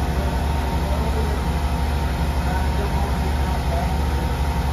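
A machine running steadily with a low, fast-pulsing hum that starts up just before.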